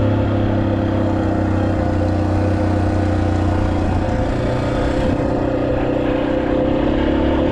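Motorcycle engine running steadily while riding, its pitch shifting about four seconds in as the revs change.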